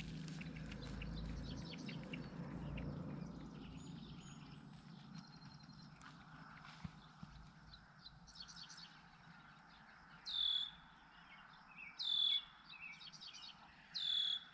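A bird calling. A short, sharp call is repeated about every two seconds from about ten seconds in, with fainter chirps between. A low rumble fills the first few seconds.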